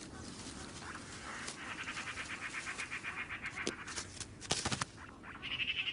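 Outdoor wildlife ambience with an animal's rapid, high-pitched pulsed trill, heard for about two seconds and starting again near the end. A few sharp clicks come just before the trill resumes.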